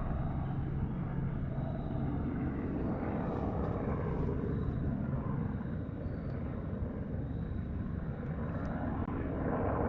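Helicopter flying some distance off, a steady drone with a constant low hum.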